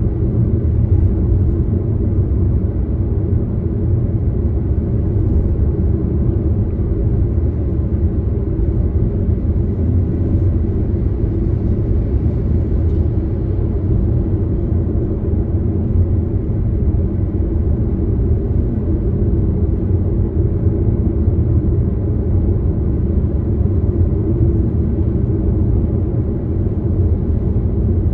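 Steady low rumble of a car being driven, with road and engine noise holding an even level throughout.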